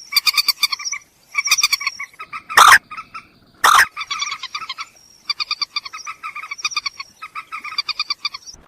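Moorhen calling: rapid runs of short, croaking pulsed notes in repeated bursts, with two much louder harsh notes about three and four seconds in.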